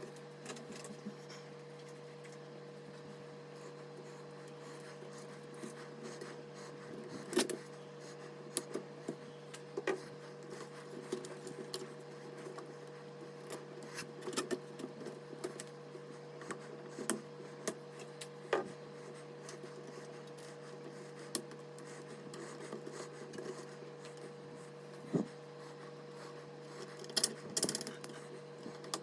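Hands handling computer parts: scattered light clicks, taps and rubbing, irregular and a few seconds apart, over a steady low hum.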